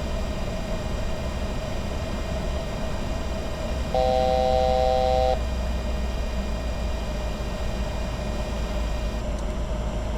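Steady cockpit noise of the Bombardier Challenger 605 in descent, a low rumble of airflow and engines with a constant faint whine. About four seconds in, a steady electronic tone of several pitches sounds for about a second and a half and then stops.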